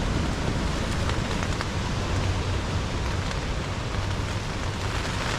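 Steady rain and wind on a tent in a storm, with a low rumble and a few faint ticks of drops.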